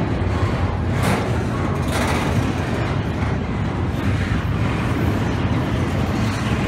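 Double-stack intermodal freight train rolling past at close range: a steady rumble of steel wheels on rail and well cars, with a couple of brief sharper clacks about one and two seconds in.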